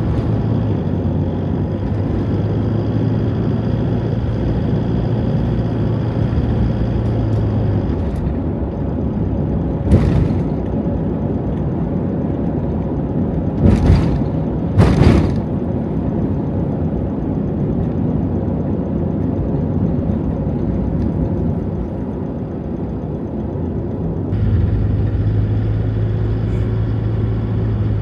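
Steady engine and road noise inside a moving Toyota HiAce van, mostly low, with three short thumps about ten, fourteen and fifteen seconds in.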